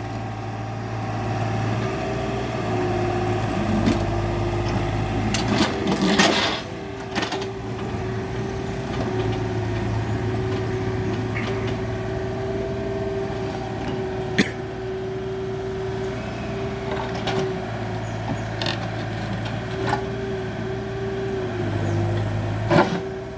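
Excavator's diesel engine running steadily with a constant whine over it, broken by a few short sharp knocks, one cluster about six seconds in.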